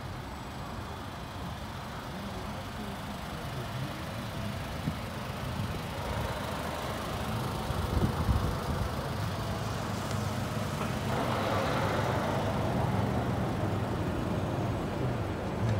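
Mitsubishi Outlander Sport's 2.0-litre four-cylinder engine idling steadily, a low even hum. A broader hiss swells in over the second half.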